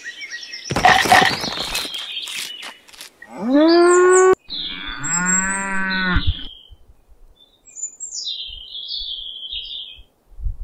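A cow mooing twice, two drawn-out calls a second apart around the middle, after a noisy rattling clatter about a second in. Faint high bird chirps near the end.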